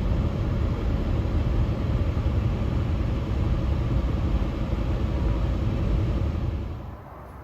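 Steady road and tyre rumble with engine noise inside the cabin of a moving Nissan Altima, dropping much quieter near the end.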